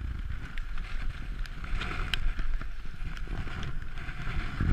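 Bicycle riding fast downhill on a paved highway: wind buffeting the microphone as a heavy low rumble, with road hiss and scattered sharp clicks and rattles from the bike.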